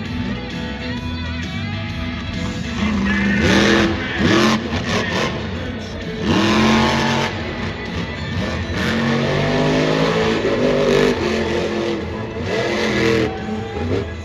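Monster truck engine revving hard, its pitch sweeping up and down several times, over loud arena music.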